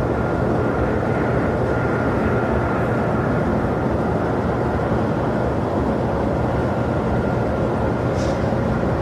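Jet airliner engines running steadily, a continuous rush with a faint high whine held at one pitch.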